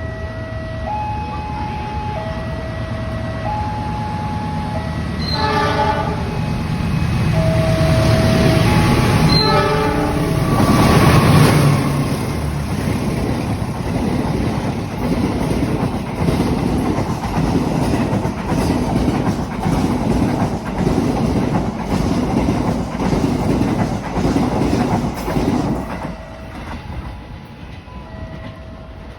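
A level crossing's warning alarm alternates between two pitches while a train sounds its horn twice, briefly. The train then passes, its wheels clattering over the rail joints in a steady beat, loudest a few seconds after the horn, and the clatter dies away near the end.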